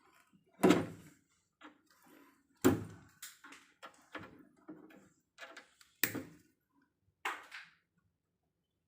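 Four loud knocks a second or more apart, with lighter clicks and taps between them.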